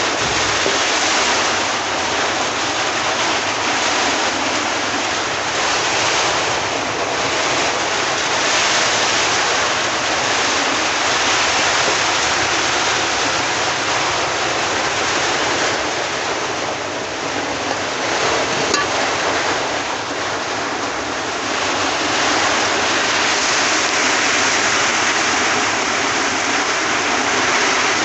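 Heavy rain falling steadily, with rainwater running and flowing across the ground, a dense even rush that eases slightly for a few seconds past the middle.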